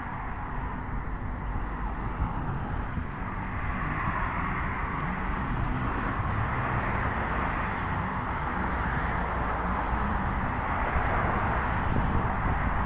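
Steady outdoor background rush with a low, uneven rumble of wind on the microphone; the rush swells a little about four seconds in and holds.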